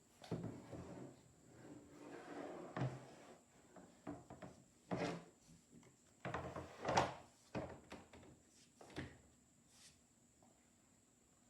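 Irregular knocks, clicks and scrapes of something being handled and set down, with the sharpest knocks a little under 3 seconds in, about 5 seconds in and about 7 seconds in, dying away after about 9 seconds.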